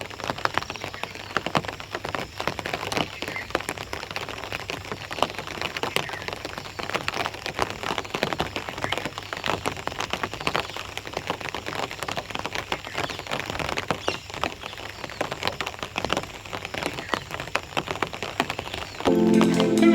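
Steady rain falling, with many separate drops ticking irregularly on a hard surface.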